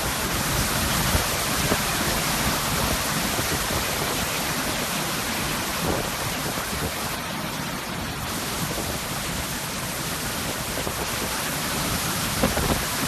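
Steady roar of hurricane rain and wind: a dense, even wash of noise with no let-up.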